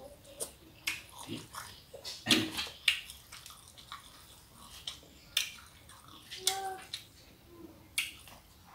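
Close-miked eating sounds: wet chewing and lip-smacking with irregular sharp mouth clicks, and fingers picking through food on a plate.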